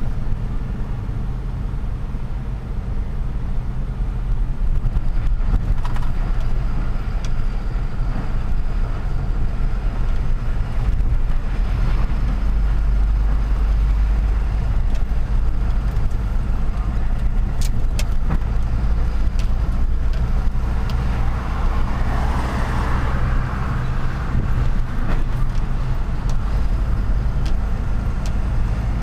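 Truck's diesel engine running steadily while driving through city traffic, with a few faint clicks and a brief swell of noise about three-quarters of the way through.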